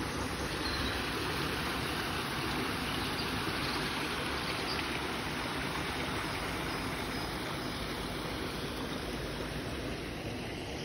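Steady, even rushing noise with no distinct events, of the kind that flowing water makes.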